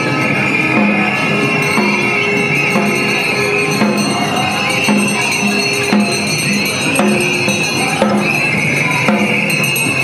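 Street percussion with a steady beat, about two strokes a second, and tambourine-like jingling over it.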